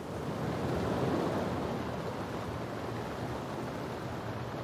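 Steady rain with a low rumble underneath that swells about a second in and slowly fades.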